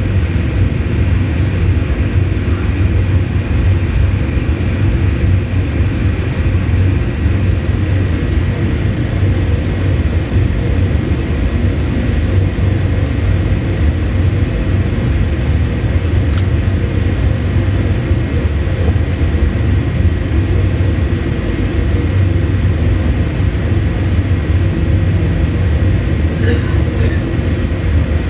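Steady cabin noise inside a Boeing 787-8 airliner on the ground after landing: a continuous low rumble from the engines and airframe, with faint steady whines above it and a few faint ticks.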